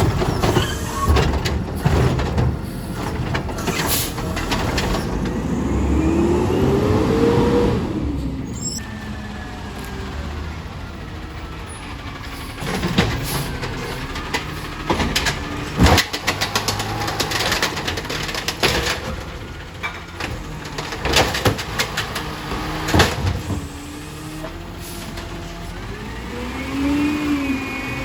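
Garbage trucks at work on their collection routes: engine and hydraulics running, with a whine that rises in pitch twice and several sharp bangs of bins or metal.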